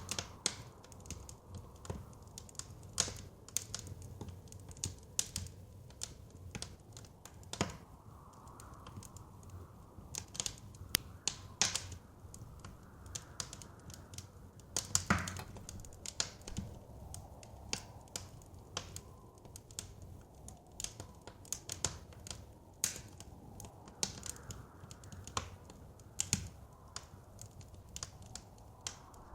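Wood fire crackling, with irregular sharp pops and snaps over a steady low rumble of the flames. A soft blizzard wind rises and falls faintly behind it.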